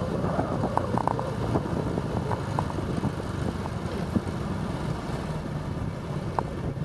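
Motorbike engine running steadily while riding through town traffic, with wind noise on the microphone.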